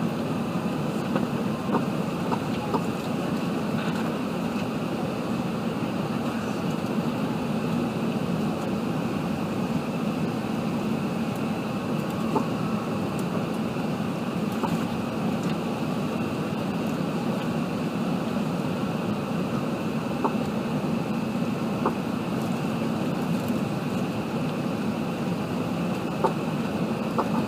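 Steady cabin noise inside an Airbus A380 airliner: an even rumble and rush of engines and airflow, with a few faint clicks.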